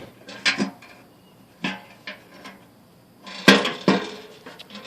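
Bucket of a homemade bucket-and-stick bird trap knocking and clattering as it is handled: several sharp knocks with a brief ringing after each, the two loudest about three and a half seconds in.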